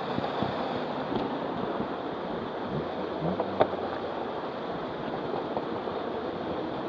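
Waterfall rushing: a steady, even wash of falling water. About three and a half seconds in, a brief low pitched sound and a sharp click stand out over it.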